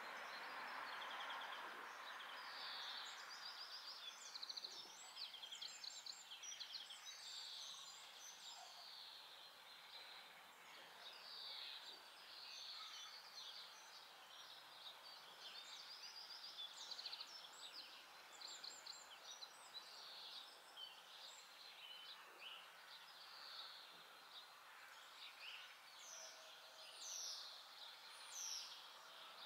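Faint background of wild birds calling and singing: many short, high chirps and trills scattered throughout, over a light hiss of outdoor ambience.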